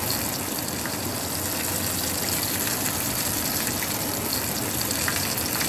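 Flour-coated chicken cubes frying in hot oil: a steady sizzle with a few small crackles.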